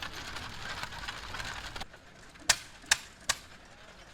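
Busy outdoor background noise that cuts off suddenly, followed by three sharp knocks about 0.4 s apart.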